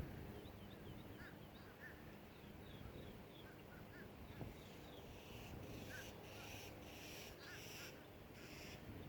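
Faint, distant bird calls: short chirps repeating throughout, then from about halfway a crow cawing several times in a row, harsh and a little louder.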